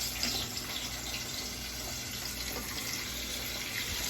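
Chicken feet frying in hot oil: a steady sizzle.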